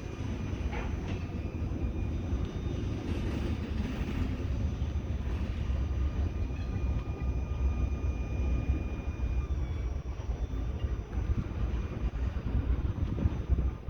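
Train rolling past: a steady low rumble of wheels on rail, with a faint high steady tone that holds for a few seconds around the middle.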